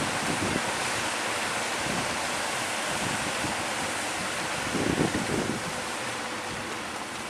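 Strong wind blowing across the microphone over the sound of the sea, a steady rushing noise with a heavier low buffeting gust about five seconds in.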